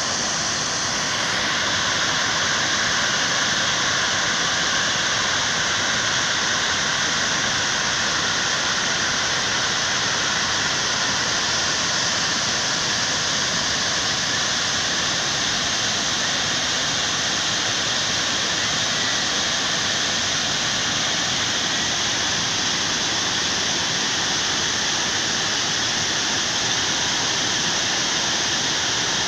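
Waterfall: water pouring and splashing as a steady, unbroken rush of noise.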